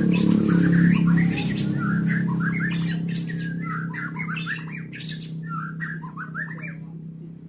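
White-rumped shama giving rapid strings of short chirps and harsh squawks over a steady low hum, its calls thinning out near the end.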